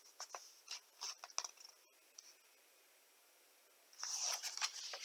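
Picture book pages being handled: a few soft ticks and rubs, then a page turned with a rustle from about four seconds in.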